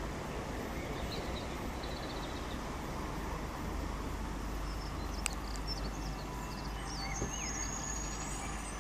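Two Class 66 diesel locomotives running, a steady low rumble, with faint bird chirps above it.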